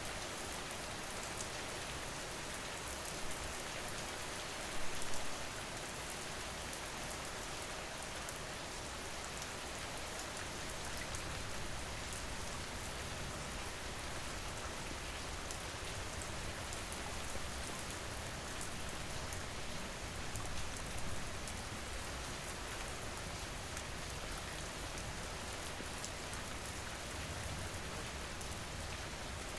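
Steady rain falling, an even hiss of drops on surfaces, with a brief louder patch about five seconds in.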